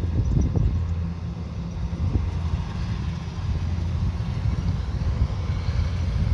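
Kubota combine harvester's diesel engine running with a steady low drone, with a few short knocks in the first second.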